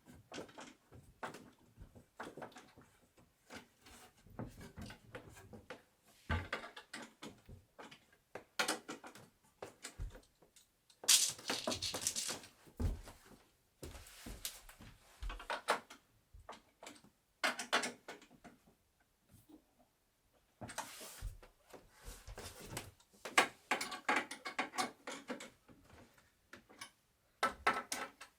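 Wooden bed parts and hardware being handled and knocked together during assembly: irregular clicks, knocks and short scrapes, with a longer, louder scraping stretch about eleven seconds in.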